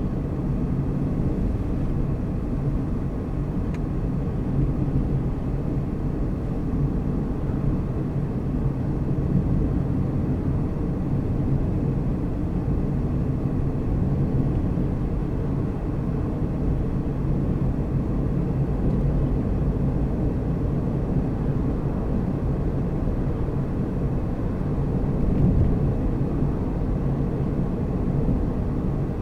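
Car driving at a steady speed: a steady low rumble of engine and tyres on the road, with a faint steady hum.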